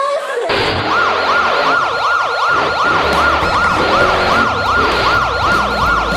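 An emergency-vehicle siren in a fast yelp, sweeping up and down about three times a second, starting about half a second in, over background music.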